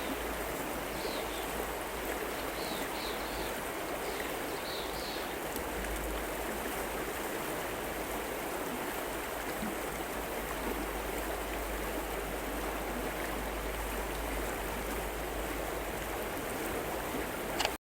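River water flowing steadily over a streambed, with a few short high chirps in the first five seconds. The sound cuts off suddenly just before the end.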